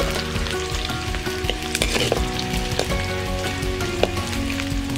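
Chopped onions and green chillies sizzling in hot oil in an iron kadai, stirred with a metal spatula that clicks and scrapes against the pan now and then.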